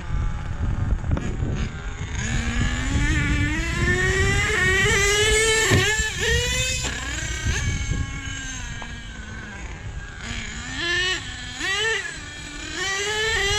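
Nitro RC truck engine revving as the truck drives, its pitch climbing over the first several seconds, then dropping and rising with throttle. There are two quick blips near the end before it climbs again.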